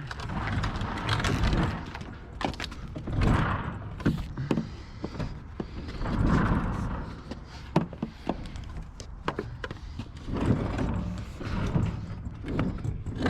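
A heavy metal appliance being dragged and shoved over ground: irregular scraping swells with scattered knocks and clanks as it catches and jolts.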